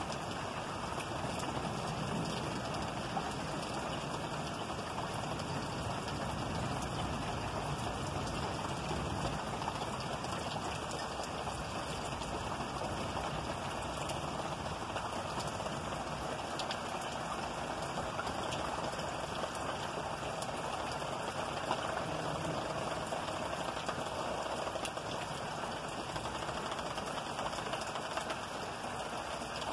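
Steady rain falling in a storm: an even hiss of rain with scattered faint drop ticks, holding level throughout.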